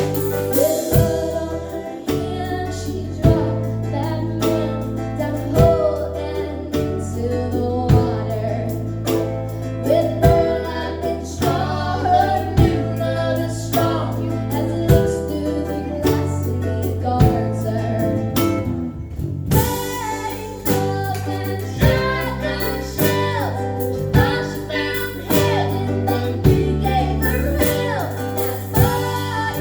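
A band playing a song live, with a female voice singing lead over guitar and a bass line.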